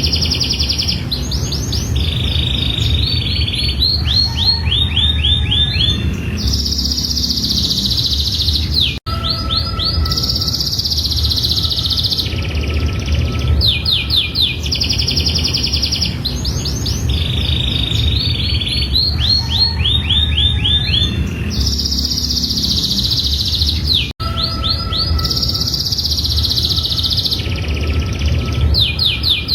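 Domestic canary singing a long, unbroken song of rapid trills and rolls, switching to a new phrase every second or two, over a steady low hum. The song repeats about every fifteen seconds, with a brief dropout about 9 and 24 seconds in.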